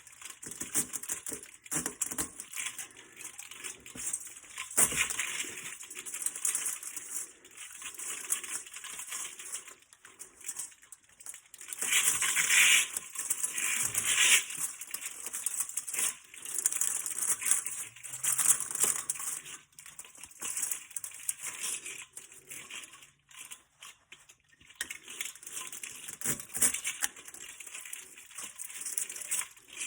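Thin aluminum fins of an HVAC A-coil being cut and bent off by hand: irregular metallic crinkling and scraping in uneven bursts, loudest about halfway through.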